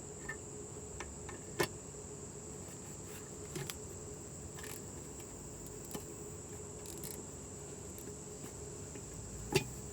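A few sharp metallic clicks and taps as the transmission pan and its bolts are fitted by hand, the loudest about one and a half seconds in and near the end, over a steady high-pitched whine.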